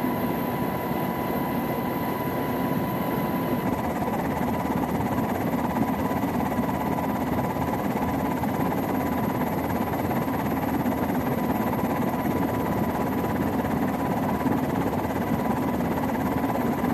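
Steady mechanical drone of an engine or machinery, an even rumble with a fixed hum that holds unchanged.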